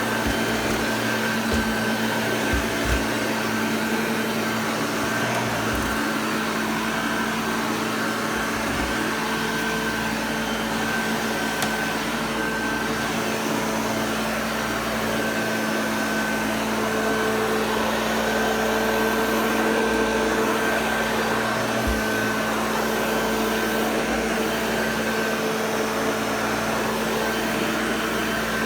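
Hoover Junior Exclusive U1104 upright vacuum cleaner running steadily, its motor giving a constant hum with a faint high whine over the rush of air, and a few low bumps in the first several seconds.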